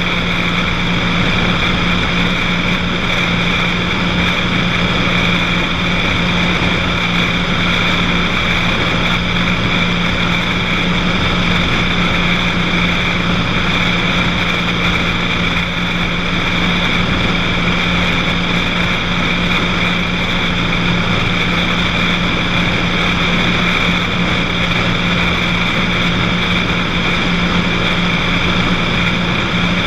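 Cessna 182 piston engine and propeller running steadily in flight: an even drone with a constant low hum and higher whine that neither rise nor fall.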